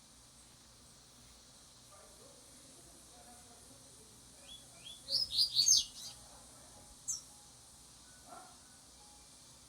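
Double-collared seedeater (coleiro) giving a short burst of rapid high chirps about halfway through, then a single high note a second later.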